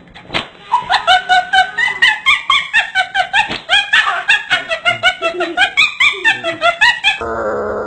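Laugh-like voiced calls in a fast run of short pulses, about four a second, followed near the end by an abrupt change to a steady, held pitched call.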